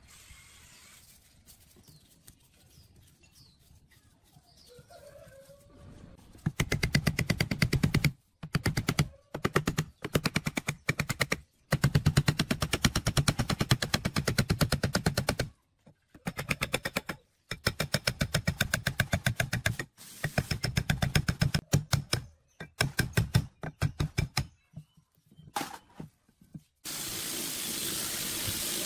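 Rapid mechanical hammering, many blows a second, in bursts of one to four seconds with short pauses, typical of a power tool at work during the restoration. About two seconds before the end a steady hiss begins.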